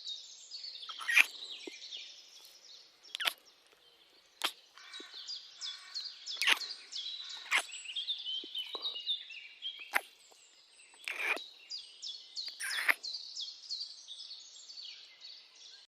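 Small birds chirping in a busy chorus of quick, high, repeated notes, with sharper, louder calls or clicks breaking in every second or so.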